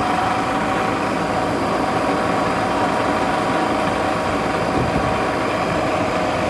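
LG 10,000 BTU window air conditioner running steadily: a constant hum with several steady tones over a rush of air from its fans, the rear coil blown by a reversed blower wheel in place of the condenser fan.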